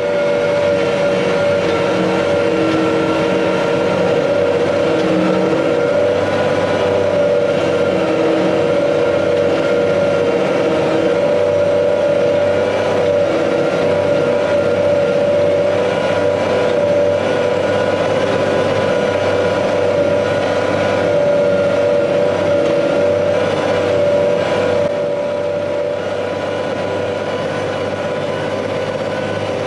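Heavy farm machinery engine running steadily under load with a constant droning hum. It eases off slightly near the end.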